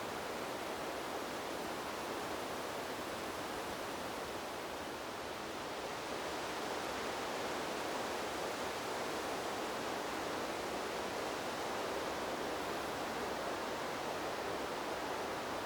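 Wind rushing through trees: a steady, even hiss that eases slightly about five seconds in, then swells back a little.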